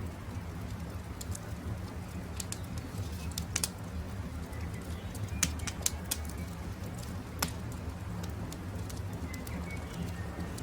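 Campfire crackling, with sharp separate pops scattered over a steady low rumble. Birds call faintly in the background.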